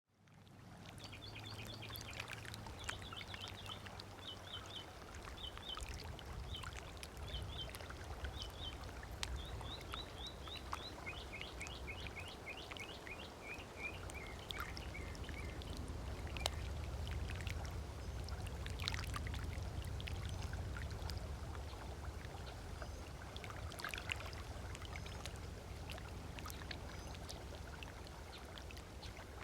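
Lake water lapping gently on a sandy beach under a low steady rumble, while a bird calls in quick series of short, repeated chirps through the first half.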